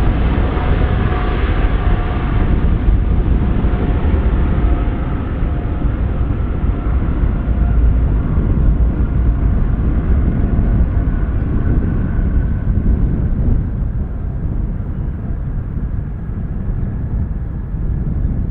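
A Boeing 777-300ER's GE90-115B jet engines at takeoff thrust: a loud, deep rumble with a few steady whining tones. It fades slowly as the jet moves away.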